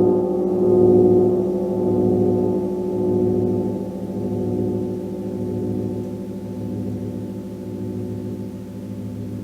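Gong ringing on without a fresh strike, a deep, many-toned hum that swells and fades about once a second while it slowly dies away.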